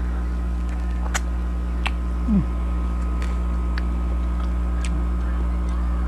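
A person chewing santol (cotton fruit) pulp, with a few sharp mouth clicks and smacks spread through, over a steady low hum. About two seconds in, a brief low sound slides downward in pitch.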